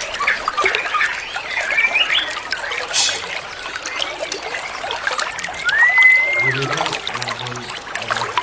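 White-rumped shama (murai batu) singing: varied short whistles, then one long clear whistle that rises, holds and falls about six seconds in, over a steady trickle of water. Low music tones start near the end.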